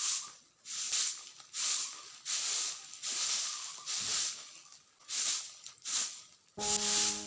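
A broom sweeping a floor in about nine swishing strokes, roughly one every second. Soft music comes in near the end.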